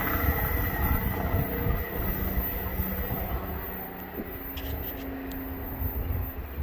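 Freight train rolling past: a steady rumble of freight cars on the rails, with a thin, high wheel squeal in the first couple of seconds, slowly getting quieter.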